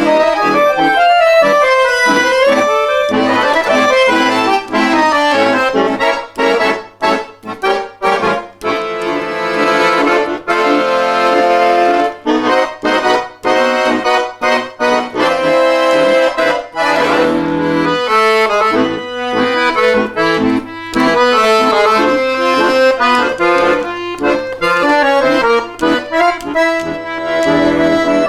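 A bayan (Russian button accordion) playing a lively instrumental tune. It holds sustained chords and breaks into short, choppy staccato notes about a third of the way in.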